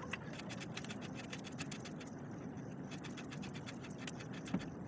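Bottom bracket being unscrewed by hand from the bicycle frame's shell after being loosened, threads scraping faintly with many small, fast ticks.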